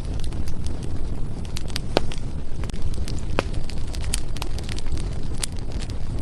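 Firewood burning in a fireplace: frequent sharp crackles and pops over a steady low rumble, with a few louder snaps about two, three and a half, and five and a half seconds in.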